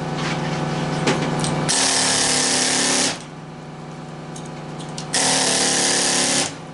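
Power tool running in two bursts of about a second and a half each, used to pull the copper windings out of a scrap electric motor, over a steady low hum.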